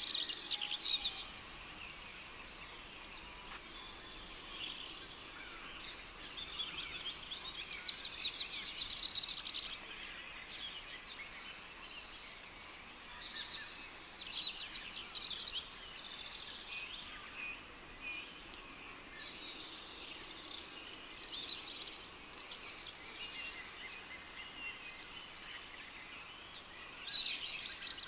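Rainforest ambience: a cricket chirping in a steady, rapid rhythm of high short pulses, pausing briefly twice, with various birds calling and chirping over it in short bursts.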